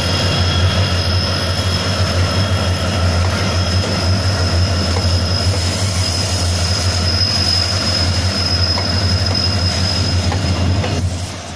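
Diesel locomotives hauling a freight train of loaded flat wagons past at close range: a loud steady engine drone with a thin high whine over it. The drone drops away near the end as the locomotives move off and the wagons roll by.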